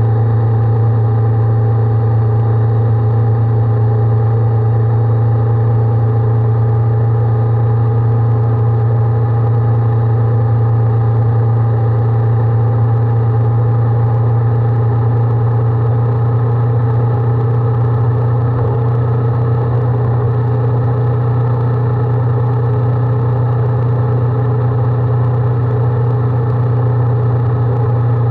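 Honda 400X motorcycle's parallel-twin engine running at steady revs, a loud, constant low drone with no change in pitch.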